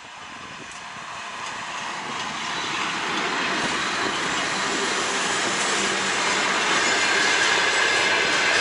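Freight train behind a 2ES4K Donchak electric locomotive approaching: the rumble of wheels on rail grows steadily louder, and a thin high whine comes in after about six seconds.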